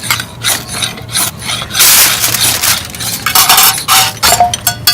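Aluminium foil crinkling and rustling in irregular bursts as it is folded and pressed around a seared block of beef, with a couple of brief metallic clinks near the end.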